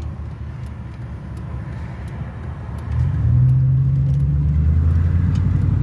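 Chevrolet 5.3 L V8 with a straight-pipe exhaust and Cherry Bomb mufflers running with a low rumble. About three seconds in, the revs pick up and the exhaust note grows louder and holds as a steady drone.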